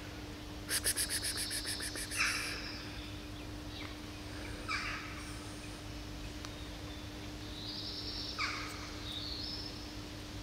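Birds calling: a quick rattling run of about a dozen sharp notes about a second in, then a few short scattered chirps. A faint steady low hum runs beneath.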